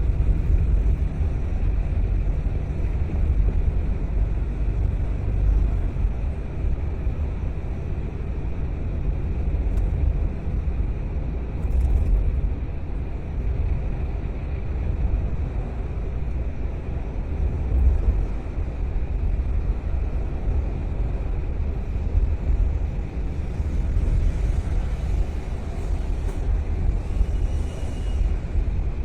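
Steady low rumble of a car driving: road and engine noise that rises and falls slightly but never stops.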